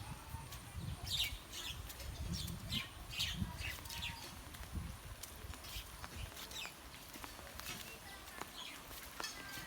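Birds chirping in short, repeated calls, busiest in the first half, over a low rumble that dies away about six seconds in.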